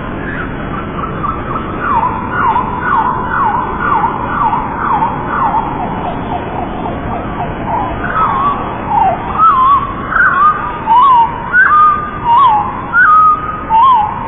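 Lovebirds chirping: a fast series of short, falling chirps, then louder, separate whistling calls that bend up and down in pitch over the second half, against a steady background hiss.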